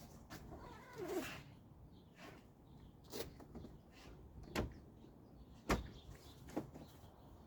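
Scattered sharp clicks and knocks, about six in all and the loudest just before the six-second mark, with a brief squeak about a second in: hands working the latches and fittings of a Jeep Wrangler LJ's top.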